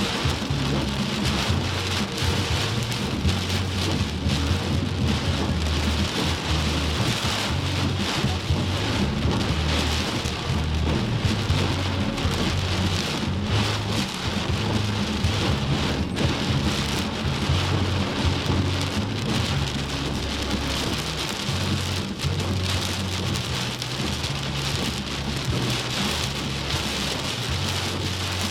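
Heavy rain pouring steadily in a rainstorm, with a low, uneven rumble underneath.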